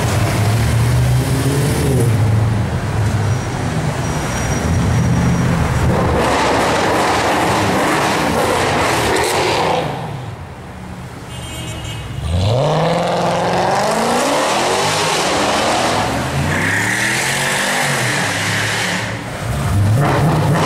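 Mercedes C63 AMG V8 through an IPE aftermarket exhaust, accelerating hard with the engine pitch climbing again and again. Around ten seconds in it goes briefly quieter, then pulls hard again through several rising sweeps.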